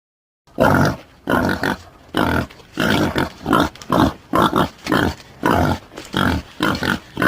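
Boar grunting in a quick, steady series of short, deep, rough grunts, about two a second, starting about half a second in.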